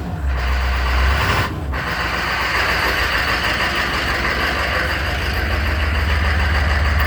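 1995 Chevy K3500's 6.5-litre turbo-diesel V8 running at idle just after a start at around freezing, pre-warmed by a block heater and oil pan heater. The sound has a couple of brief breaks near the start and runs steadily from about two seconds in.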